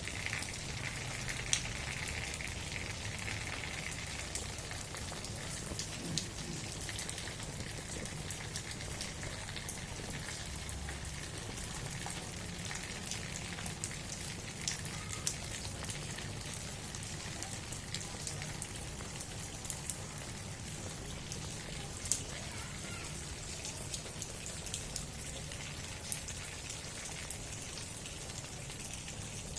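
Steady rain falling, with scattered sharper drop hits standing out from the hiss.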